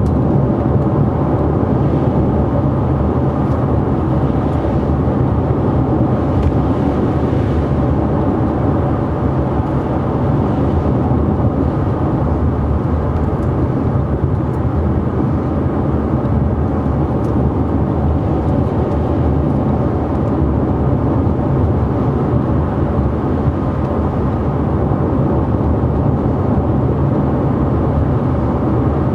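2013 Ford Fusion sedan cruising on a wet road: a steady low rumble of tyre and road noise with wind and engine hum, unchanged throughout.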